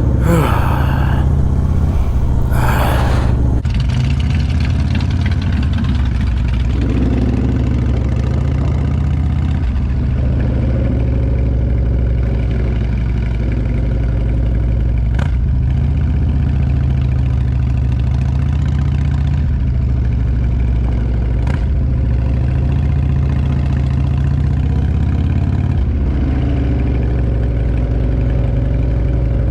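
V-twin motorcycle engine running, its steady low note shifting in pitch a few times. There are two short rushes of noise in the first few seconds.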